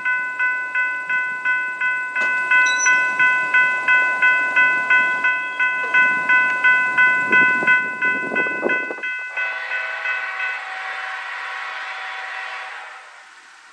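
Railroad crossing bell ringing at about two and a half strikes a second while a train rolls past on the rails. The bell stops about nine seconds in, and the train's running noise carries on a few seconds more before fading away.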